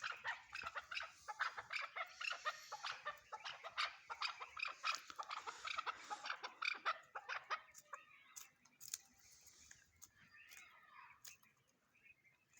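Chukar partridge calling: a rapid run of short clucking notes for about seven seconds, then fewer, fainter calls toward the end.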